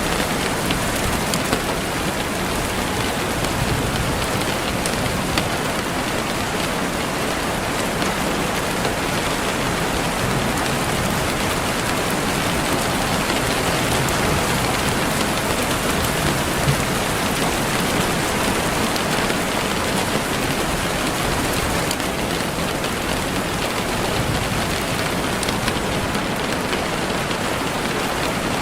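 Steady rain falling and pattering on surfaces, an even continuous hiss with occasional individual drop ticks.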